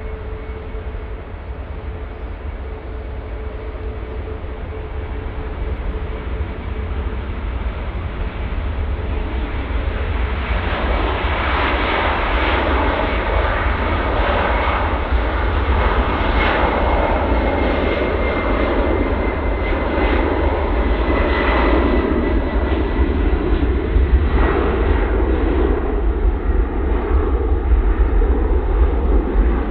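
Jet engines of a Boeing 767-400ER departing, growing steadily louder. A steady high whine runs through, and a heavy rumble and rush builds from about ten seconds in.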